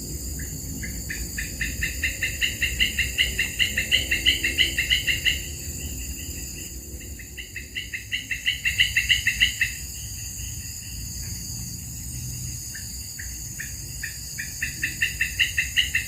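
Rapid runs of chirping animal calls, about five notes a second, in three bouts that each grow louder, over a steady high-pitched insect hum.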